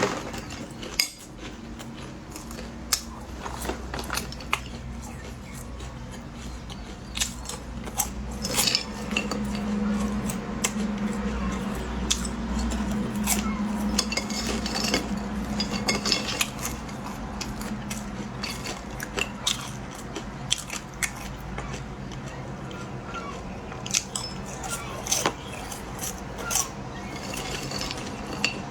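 Eating at a table: scattered sharp clicks and clinks of utensils against dishes over a low steady hum.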